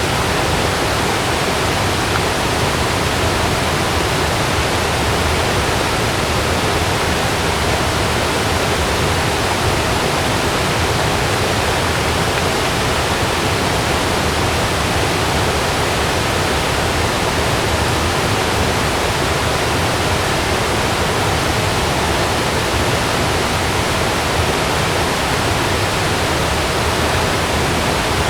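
Heavy rain falling steadily, a dense, even rush with no thunder claps standing out.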